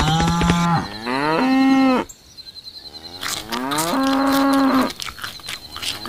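Cattle mooing: several long moos one after another, each sliding up in pitch and then held steady.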